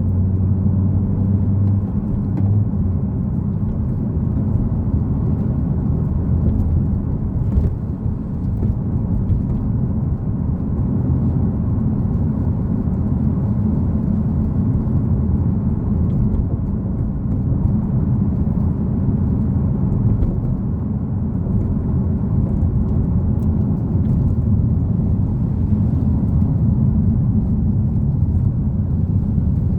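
Nissan Fairlady Z (Z34)'s 3.7-litre V6 running while the car drives along, under a steady low road rumble. A steady engine drone in the first couple of seconds gives way to an even rumble.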